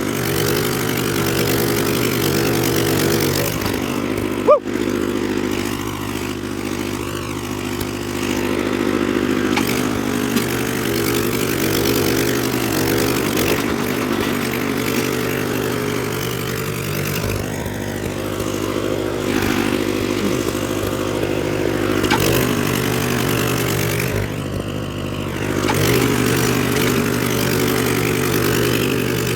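Troy-Bilt Horse rear-tine rototiller's engine running steadily while tilling. There is one brief sharp click about four and a half seconds in.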